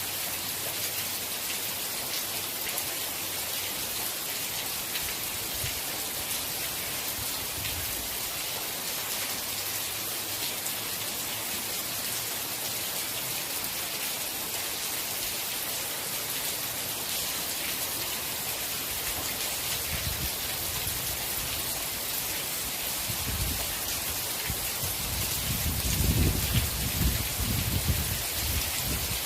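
Steady rain falling in a dense, even hiss of drops. In the last third a low rumble swells up and peaks shortly before the end.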